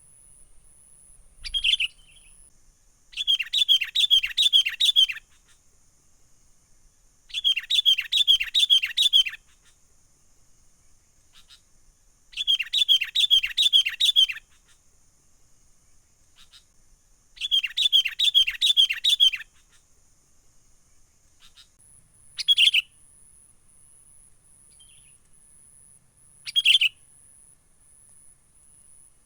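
Sooty-headed bulbul (kutilang) giving its excited 'menggaruda' chattering call. Four runs of rapid, sharp, downward-slurred notes, each about two seconds long, are followed by a few single notes near the end.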